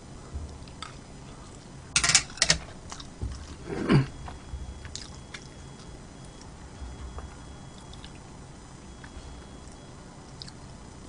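Close-miked eating sounds of a person chewing and biting food. There are a few loud sharp mouth noises about two seconds in, a louder sound with a downward slide near four seconds, and then quieter, scattered chewing clicks.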